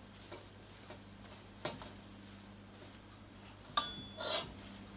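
Utensil working a potato and chicken mixture in a mixing bowl: a few faint knocks, then one sharp clink against the bowl with a brief ring nearly four seconds in, followed by a short scrape.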